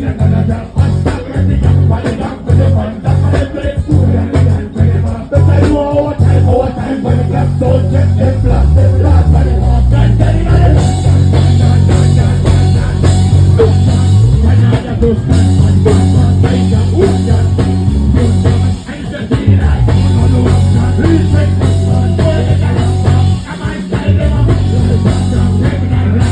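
Live dancehall music played loud over a sound system, with a heavy bass line, a few gliding bass notes midway, and brief drops in the beat.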